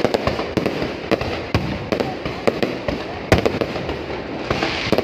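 Fireworks going off in a dense, irregular barrage: sharp bangs several times a second over a continuous crackle, with one of the loudest bangs a little past three seconds in.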